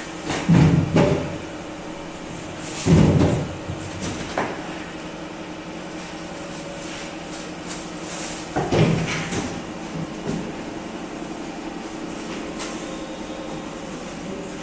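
Workshop clatter: a few heavy clunks and knocks of parts being handled, over a steady machine hum. The loudest knocks come near the start and about three seconds in, with another cluster near the middle.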